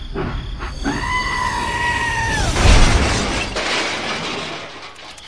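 A high, steady pitched cry held for about a second and a half, dipping at its end, followed by a loud crash with a burst of shattering noise that fades over about a second.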